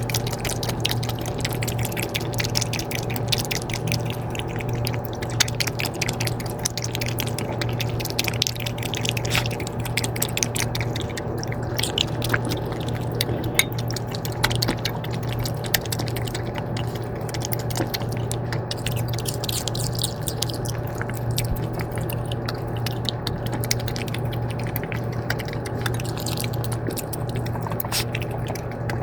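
A steady low machine hum runs without a break under continuous irregular crackling and ticking.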